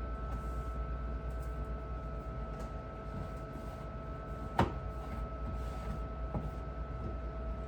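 Steady low hum with a few faint constant tones over it, broken by one sharp knock about four and a half seconds in and a softer one about two seconds later.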